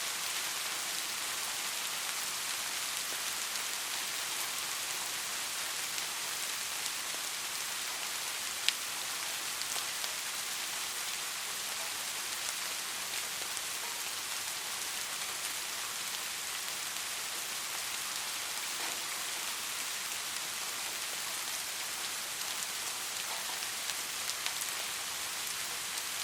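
Steady soft rain, a constant hiss with scattered raindrop ticks and one sharper, louder drop about nine seconds in.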